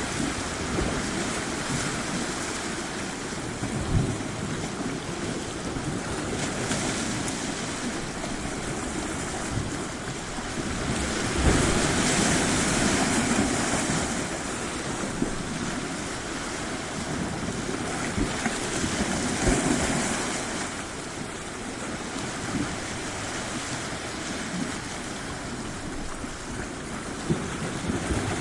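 Surf washing onto a tropical shore, a steady wash that swells with a bigger wave about a third of the way in and again about two-thirds in. A few brief low thumps, like wind buffeting the microphone, come and go.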